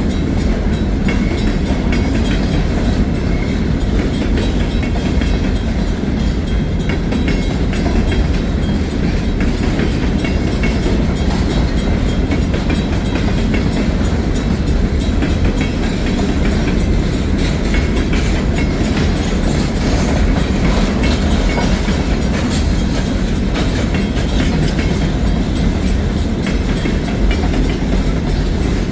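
Freight train's cars rolling past close by: a steady, loud low rumble of steel wheels on rail, with light clicking as the wheels cross rail joints.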